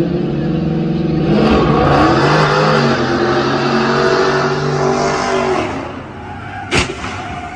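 Dodge Challengers accelerating hard from a standstill side by side, engines revving and climbing in pitch, then fading as the cars pull away. A single sharp knock comes near the end.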